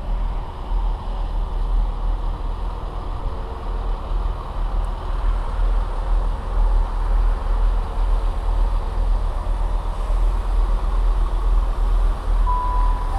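Steady low rumble of a train at the platform. Near the end, a two-note descending station chime sounds: a held higher tone, then a lower one.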